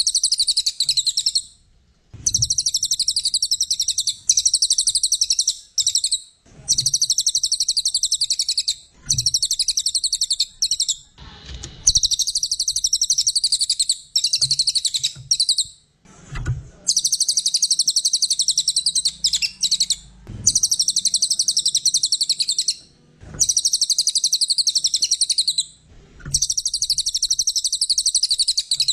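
Cililin songbird singing vigorously: long phrases of rapid, high-pitched trilling, each a few seconds long, broken by short pauses, with a few faint low thumps in the gaps.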